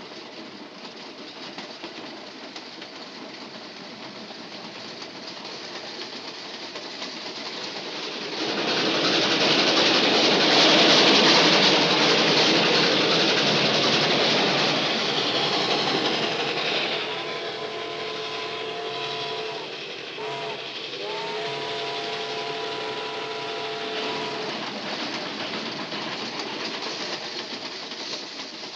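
Steam freight train running with a steady rumble; about a third of the way in a loud rushing hiss swells up for several seconds and fades. Then the locomotive's chime whistle sounds a long blast, two short toots and a second long blast.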